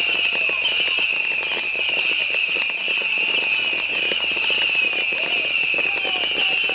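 A fireworks tower going off: a continuous dense crackle of firecrackers and rocket bursts, over a steady shrill whistling of rockets shooting out.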